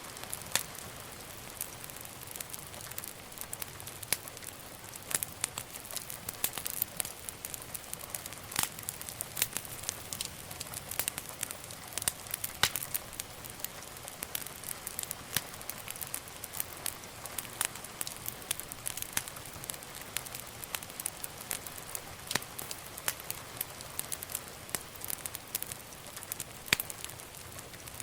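Wood fire burning in a fireplace, crackling with frequent sharp, irregular pops over a steady soft hiss.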